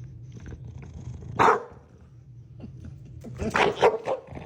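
Dog barking in play over a blanket: one bark about a second and a half in, then a quick run of several barks near the end.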